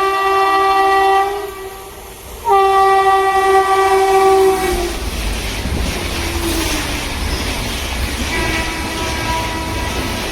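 Indian Railways electric locomotive horn in two long blasts, the second dropping in pitch at its end as the locomotive passes. Then the steady rumble and clickety-clack of the train's wagons running by.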